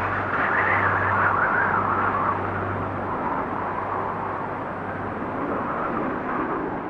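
Blizzard wind blowing in gusts: a steady rush with a higher whistling part that swells and eases.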